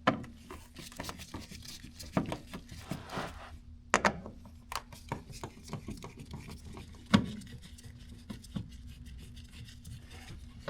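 Screwdriver scraping and clicking against a plastic car door panel as the screws along its bottom edge are backed out, with a couple of sharper plastic knocks about 4 and 7 seconds in.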